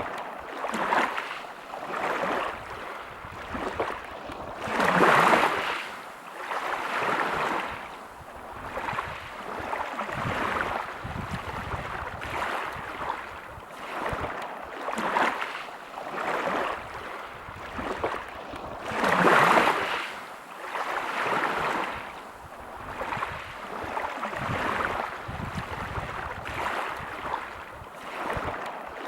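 Waves breaking and washing over a pebble beach: repeated surges of surf hiss every second or two, with two bigger waves, about five seconds in and about twenty seconds in.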